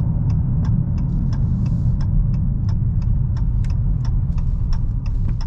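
Inside the cabin of a 2022 Dodge Challenger Hellcat on the move: a steady low rumble from the supercharged 6.2-litre V8 and the road, with the turn signal ticking about three times a second.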